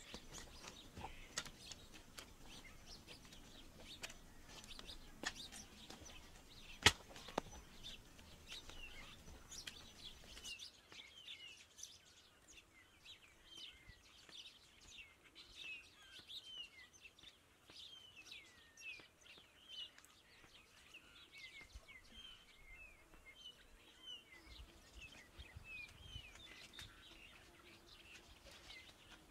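Small birds chirping again and again, short quick calls, with a few sharp clicks in the first third, the loudest about seven seconds in.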